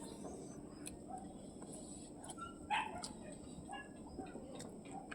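A dog barking: one louder bark about two and a half seconds in, among fainter yips.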